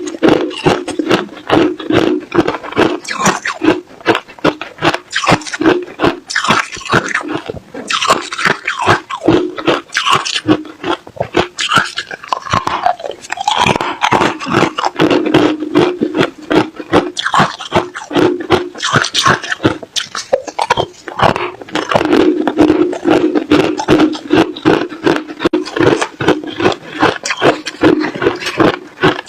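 Ice being chewed close to the microphone: a dense run of sharp crunches and cracks, several a second, as the ice breaks between the teeth.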